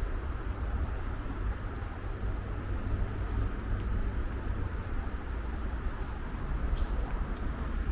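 City street ambience outdoors: a steady low rumble with a faint hiss, and a few light clicks near the end.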